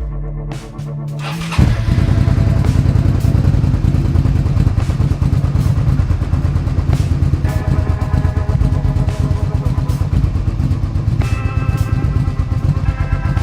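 Suzuki SV650S V-twin motorcycle engine catching about a second and a half in, then idling steadily with a rapid, even low pulse.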